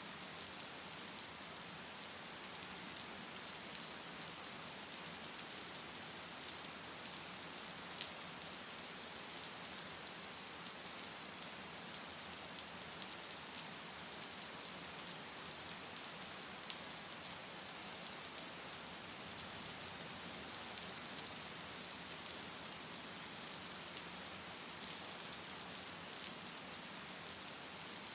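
Steady light rain layered with white noise: an even, unbroken hiss, with now and then a single sharper drop tick.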